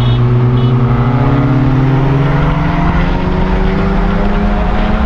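Car engine pulling hard under full throttle, its pitch rising steadily for about four seconds as it climbs through a gear, over wind and road noise.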